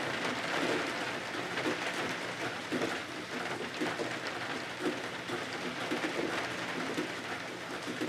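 Steady rain falling on the cottage windows and roof, a continuous hiss made of many small drop ticks.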